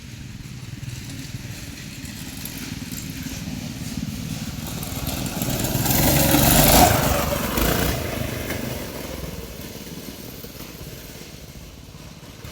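Twin-engine go-kart's small engines running as it drives toward and past, loudest about seven seconds in, then fading away.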